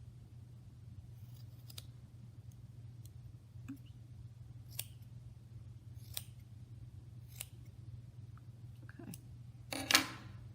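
Scissors snipping yarn strands as a yarn bird is trimmed: short single cuts a second or so apart, with a louder, longer scrape near the end, over a steady low hum.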